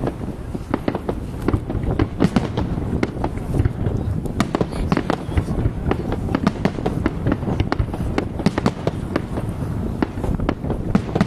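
Fireworks display going off in a rapid, continuous barrage. Many sharp bangs and crackles follow one another several times a second over a steady low rumble of booms.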